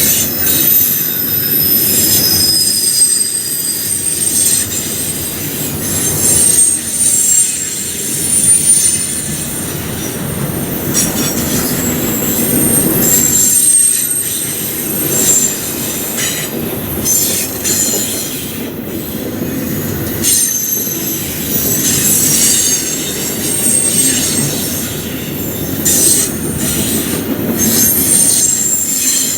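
Freight cars of a CN train rolling past, steel wheels squealing in high, shifting tones over a steady rumble, with scattered clacks from the rails.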